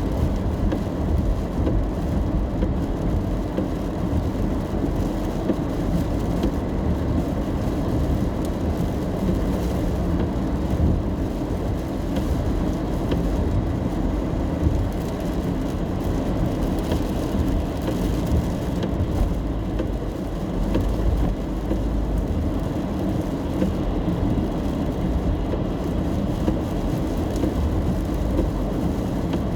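Steady low rumble of a car driving in the rain, heard from inside the cabin, with rain on the car mixed in.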